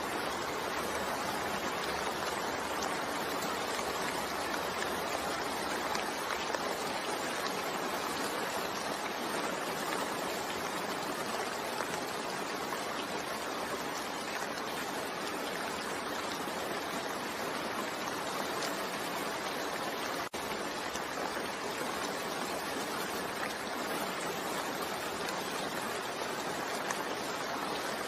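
Steady rain falling, an even continuous hiss of water. It cuts out for an instant about twenty seconds in.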